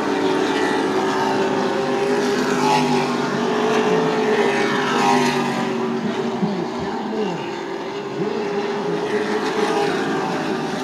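Super Truck race trucks' engines running at speed around a short oval. In the second half, several trucks pass by with their engine pitch dropping as they go.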